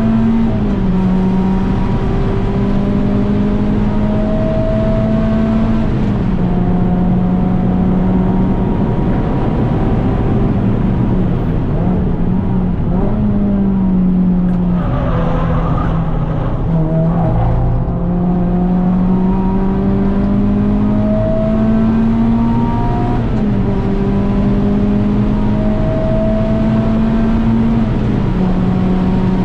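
Renault Clio 197 Cup's four-cylinder petrol engine under hard track driving: the revs climb steadily and drop sharply at each gear change, several times over. Around the middle the revs fall away with a short rush of noise before the engine pulls back up again.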